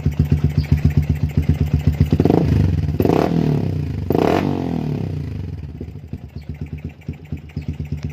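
A Yamaha Vixion's 150 cc single-cylinder four-stroke engine running through a WRX aftermarket exhaust. It idles with even pulses, is blipped three times in quick succession about two, three and four seconds in, then falls back to a lumpy idle.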